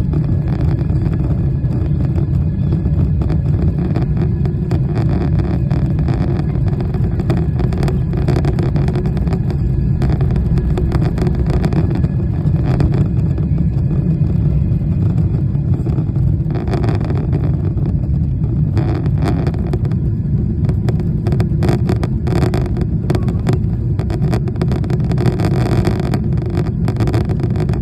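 Boeing 777's twin turbofan engines at takeoff power: a loud, steady low rumble with a flickering rush of air above it.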